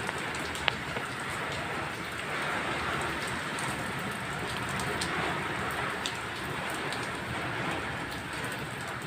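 Heavy rain pouring steadily, with a single sharp tap about a second in.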